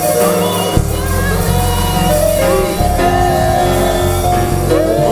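Gospel praise music: held keyboard chords and bass, with a worship leader's voice gliding over them between sung lines of a Yoruba praise song. The bass comes in strongly under the chords about a second in.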